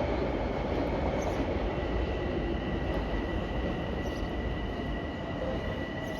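Long Island Rail Road train running past with a steady rumble of wheels on rail. A thin, high, steady ringing tone comes in about a second in, and the sound eases slightly near the end.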